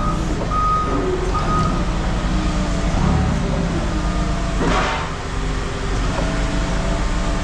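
A heavy vehicle's engine running with a steady low rumble. Its reversing alarm beeps three times in the first second and a half, and there is a brief rushing noise about five seconds in.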